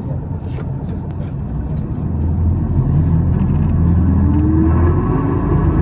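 Isuzu Erga city bus's six-cylinder diesel engine pulling under load as the bus accelerates, heard from inside the cabin. The engine note grows louder about two seconds in, and a whine climbs steadily in pitch as speed builds.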